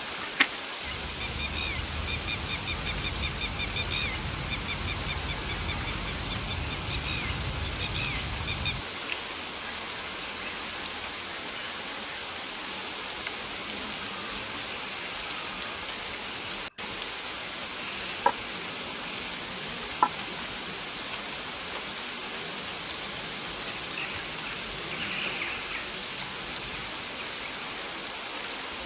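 Steady rain falling. High rapid chirping rides over it for the first several seconds, and a few sharp drip-like taps come in the second half.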